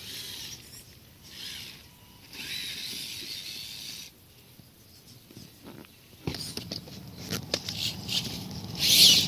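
Radio-controlled crawler trucks working over rocks. A high electric motor-and-gear whine comes in three short throttle bursts. About six seconds in, a run of clicking, scraping and crunching from tyres and chassis on rock takes over, with a loud hiss-like scrape near the end.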